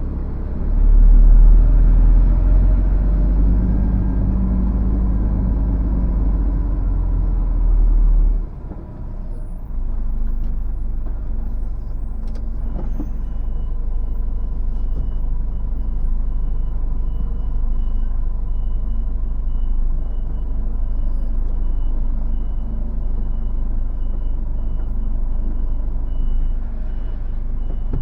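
Diesel engine of an articulated lorry running as it manoeuvres, louder for the first eight seconds or so, then dropping to a lower steady rumble. From about halfway through, the lorry's reversing alarm beeps steadily as it backs onto the bay.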